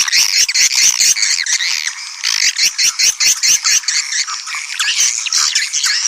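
A swiftlet lure call: a recording of edible-nest swiftlets, a dense mass of overlapping twittering chirps with rapid sharp clicks among them, played to draw swiftlets into a bird house.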